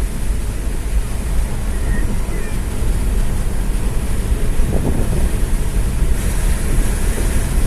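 Car driving at road speed: a steady low rumble of engine, tyres and wind noise.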